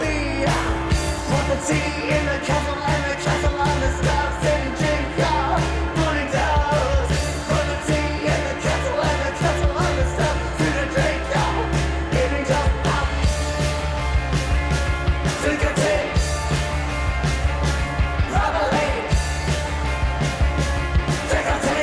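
Indie rock song: a singer over a steady drum beat and bass.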